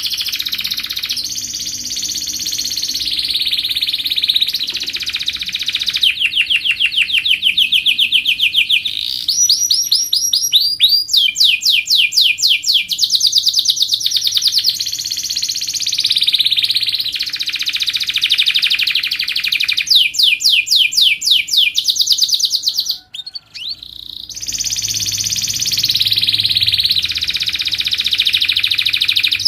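Domestic canary singing a long, continuous song of high rolling trills and fast runs of repeated falling notes, with a brief break about three-quarters of the way through.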